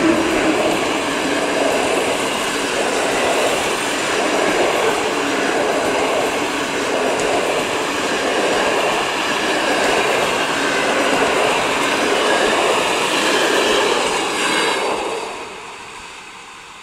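Coaches of a passenger train passing close by at speed, a steady loud rolling of wheels on rail. The noise drops sharply about fifteen seconds in as the last coach goes by, then fades as the train recedes.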